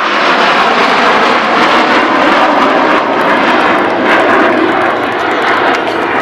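F-18 Hornet fighter jet's twin jet engines running loud and steady in a low pass, a dense roar with no clear pitch.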